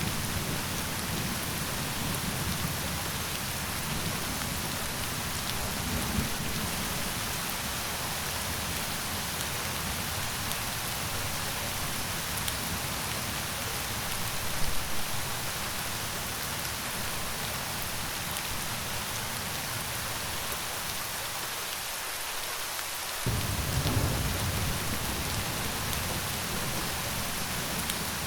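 Steady rain falling on surfaces, with low rolls of thunder underneath. One rumble starts abruptly about three quarters of the way through.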